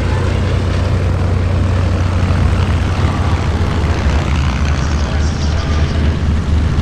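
Propeller-driven piston aircraft flying, a steady engine drone.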